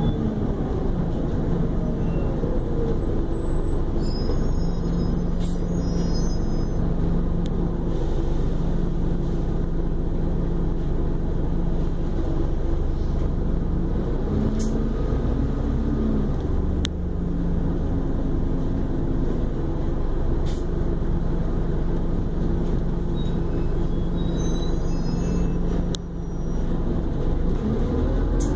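Scania E400 double-decker bus engine running with a steady low hum, its pitch falling near the start and climbing again near the end. A few sharp air-brake hisses or clicks cut through, and brief high squeals come twice.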